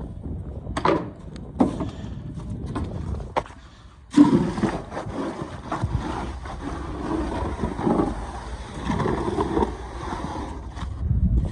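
Wind rumbling on the microphone, with repeated scrapes and crunches of snow. After a brief lull just before four seconds in, a loud scrape begins.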